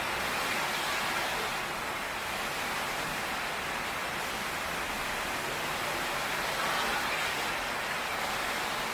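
Heavy rain pouring steadily on a tin roof, an even hiss with no thunder claps.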